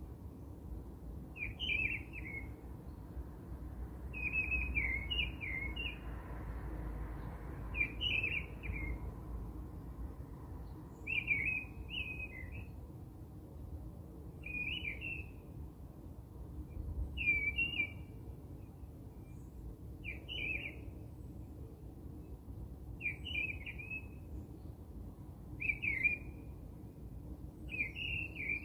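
A bird singing short chirping phrases, repeated about every three seconds, over a faint steady low hum.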